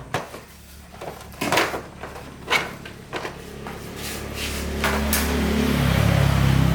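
A few separate knocks and clatters, like tools or metal parts being picked up and set down, then a steady low mechanical hum that starts about four seconds in and grows louder.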